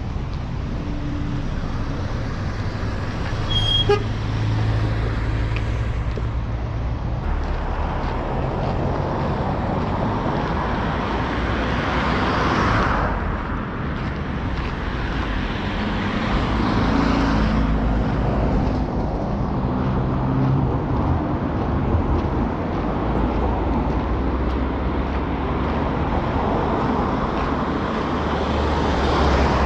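Road traffic passing close by: engine rumble and tyre noise from vehicles swelling and fading as several pass in turn. A short sharp sound about four seconds in.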